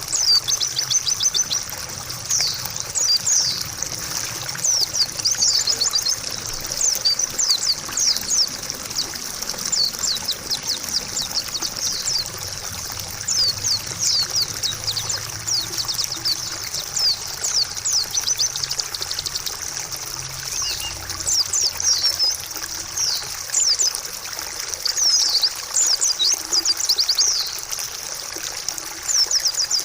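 White-eye (pleci) calling in clusters of quick, high, down-slurred chirps, over a steady trickle of running water.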